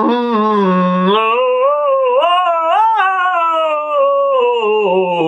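A singing voice holding one long unbroken vowel as a warm-up. It dips slightly, climbs about two seconds in to a peak near three seconds, then glides back down lower toward the end.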